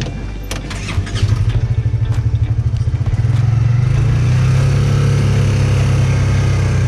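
Vehicle engine pulling away. Its low throb starts about a second in and quickens, then smooths into a steady, louder run as it gathers speed.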